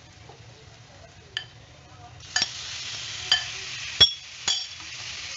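Marinated chicken pieces dropped into hot oil start sizzling about two seconds in, with a steel spoon clinking sharply against the pan a few times, the loudest clink about four seconds in.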